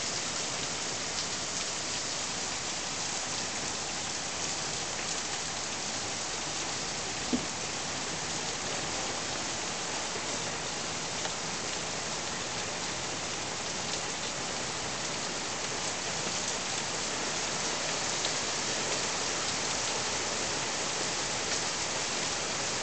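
Heavy rain pouring down steadily, an even hiss of drops hitting pavement, grass and leaves, with one brief thump about seven seconds in.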